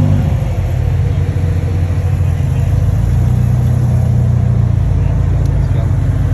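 Car engine running with a deep, steady rumble.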